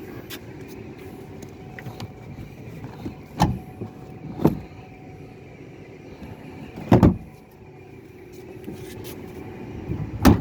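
Nissan Grand Livina's HR15DE 1.5-litre four-cylinder engine running at a steady idle, with four sharp thumps over the top, the loudest about two-thirds of the way through.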